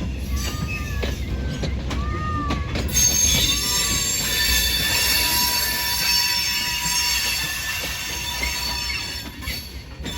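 Railroad cars rolling past with the steel wheels squealing shrilly against the rails. The squeal comes on strongly about three seconds in and eases off near the end, over a steady rumble and the clicking of the wheels.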